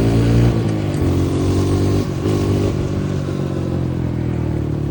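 Dirt bike engine running close by. Its pitch falls and picks up again a few times as the throttle is eased off and opened.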